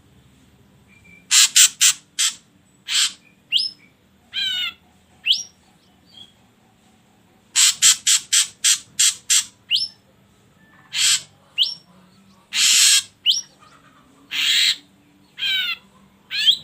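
Ashy drongo calling: quick runs of harsh, rasping notes mixed with short rising whistles and a few wavering falling notes, in phrases separated by short pauses.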